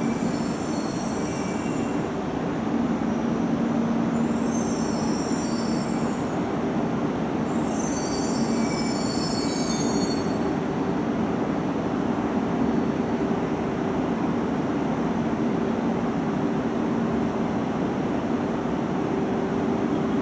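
E2 series Shinkansen pulling into a station at low speed and stopping, with a steady rumble and hum. It squeals in three high-pitched bursts over the first ten seconds as it brakes, then stands with only its steady hum.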